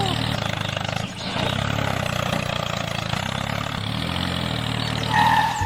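Engine sound of a tractor running steadily, with a brief dip about a second in and a short high tone near the end.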